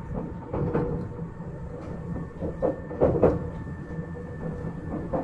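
Izukyu 8000 series electric train running, its wheels clacking over rail joints in quick pairs, loudest about three seconds in, over a steady rumble with a faint even hum.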